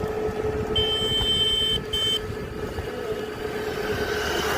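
An engine running steadily with a constant hum. About a second in, a high, steady whistle-like tone sounds for about a second, followed by a short second note.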